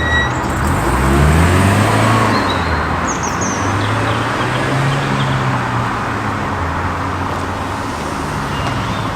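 Car engines passing on the road with tyre noise, one engine rising in pitch as it accelerates about a second in, then running on more steadily.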